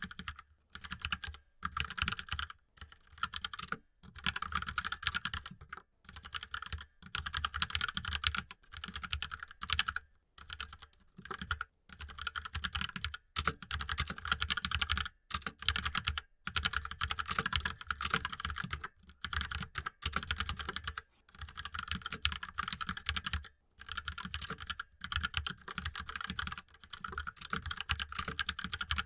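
Mechanical keyboard being typed on fast and continuously, its key clicks coming in runs of a second or two broken by brief pauses.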